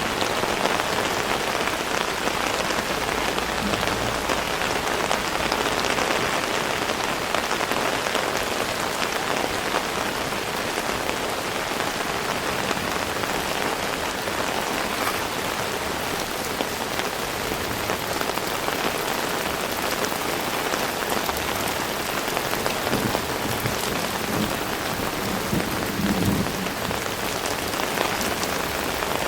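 Heavy rain falling and pattering steadily on surfaces, with a faint low rumble coming in about three-quarters of the way through.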